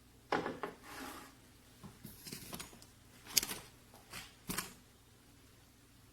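Handling noise: a string of short rustles and knocks over about four seconds, the sharpest about three and a half seconds in.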